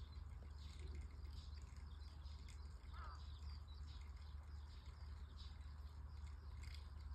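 Faint scattered bird chirps and tweets, with one short warbling call about three seconds in, over a steady low rumble.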